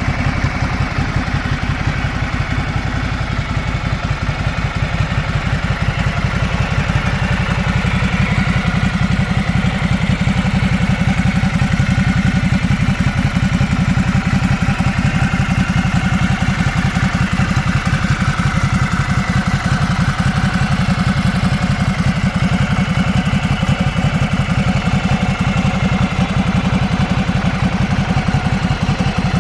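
Motorcycle engine idling steadily with an even, fast firing beat and some mechanical clatter.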